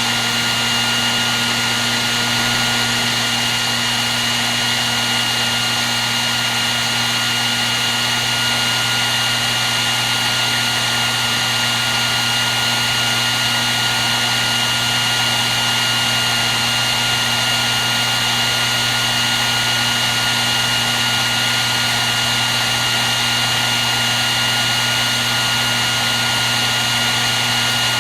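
Hair dryer running continuously: a steady, even whoosh of blown air with a constant motor whine in it, no change in speed.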